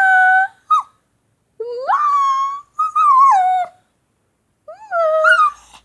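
Shih tzu puppy giving a string of about five drawn-out, whiny, howl-like calls. Each call slides up and down in pitch, with short pauses between them.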